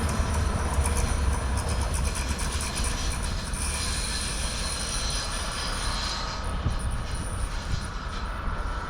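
A passing train's wheels running on the rails, its low rumble easing off as it moves away, with a faint high whine in the middle.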